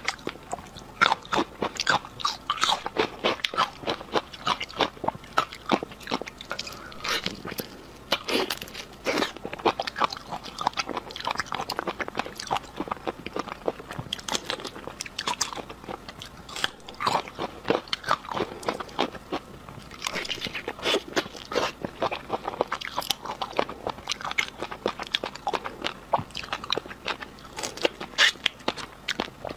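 Close-miked eating of shrimp topped with fish roe: a dense, continuous run of crunches, bites and chewing.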